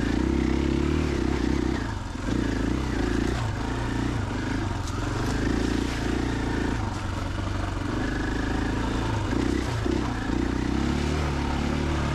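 2021 KTM 500 EXC-F's single-cylinder four-stroke engine running as the bike is ridden, holding a fairly steady throttle with a few brief dips, about two seconds in and again about seven seconds in.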